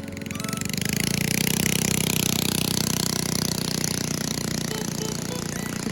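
A 5 hp Briggs & Stratton single-cylinder engine on a mini bike revving up, its pitch climbing over the first second or so, then running steadily at high revs.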